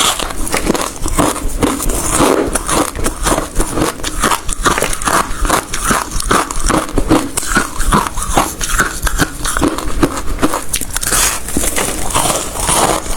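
Close-miked chewing of hard ice: rapid, irregular crunches, several a second, as the ice is bitten and ground between the teeth.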